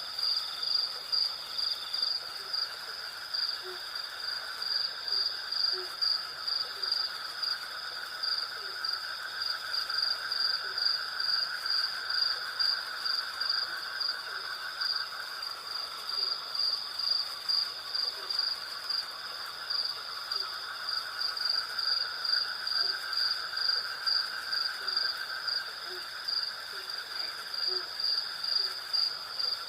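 Night insect chorus of crickets and cicadas: a steady, shrill pulsing trill over a lower continuous buzz, with faint short low calls repeating about once a second underneath.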